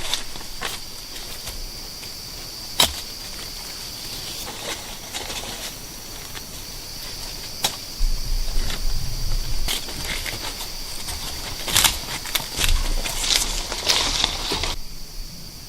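Steady high-pitched drone of insects, with scattered sharp clicks and knocks; a busier stretch of knocking and rustling handling noise comes in about halfway through and stops abruptly shortly before the end.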